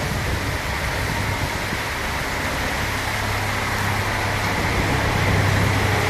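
Heavy rain with strong, storm-like wind: a steady rush of noise with a low wind rumble, slowly growing a little stronger.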